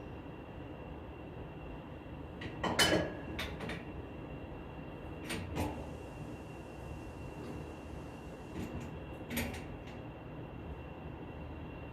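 Several short, sharp clicks and knocks, the loudest about three seconds in, over a steady low hum with a faint high whine.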